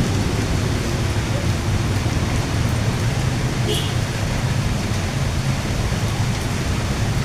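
Heavy rain falling in a steady downpour, with a deep rumble underneath.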